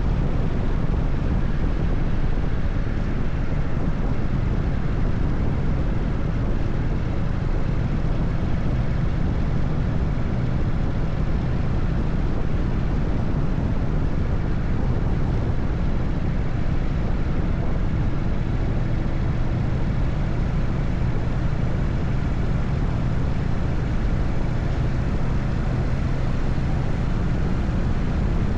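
Harley-Davidson FXSTS Evolution 45-degree V-twin running steadily at highway cruising speed, its low exhaust note unbroken under road and wind rush.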